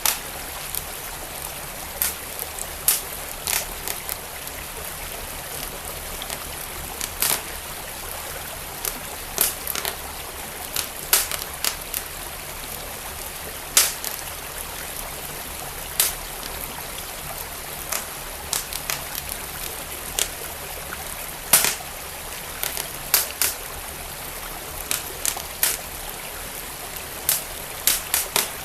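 Wood fire crackling, with sharp irregular pops a few seconds apart, over the steady rush of a flowing stream.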